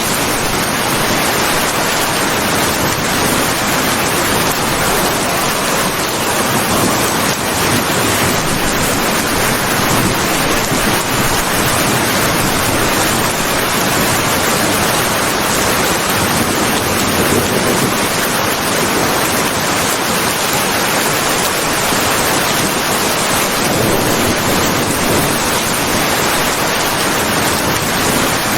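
Steady rain falling, a dense even hiss without a break or a clap of thunder.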